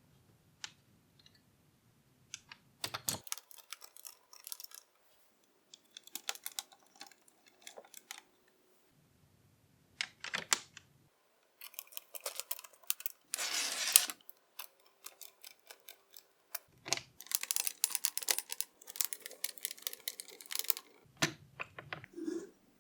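Small plastic model-engine kit parts clicking and rattling as they are handled and fitted together, in scattered bursts with a denser rattle about halfway through and a busy run of clicks near the end.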